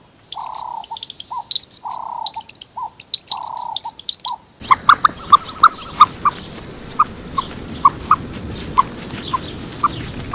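Birds chirping: quick high chirps over a repeated lower rounded note. About four and a half seconds in, the sound changes abruptly to an outdoor background hiss with a steady high tone and a string of short sharp pips, roughly two a second.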